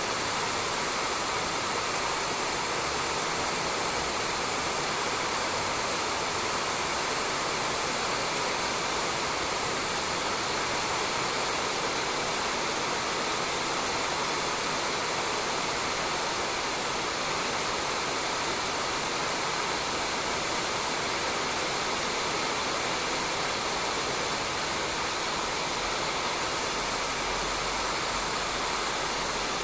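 Steady rain falling on a roof, an even hiss with no breaks.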